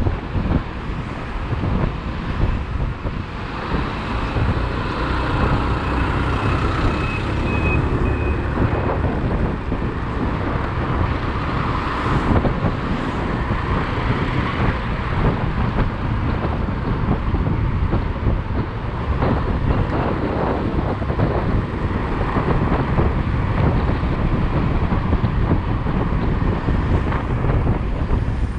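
Riding a motorcycle through city traffic: steady engine and road noise with wind rushing over the microphone.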